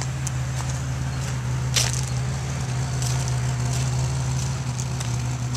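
1999 Oldsmobile Cutlass 3.1 V6 idling steadily through a custom exhaust, a constant low drone, with one sharp click about two seconds in.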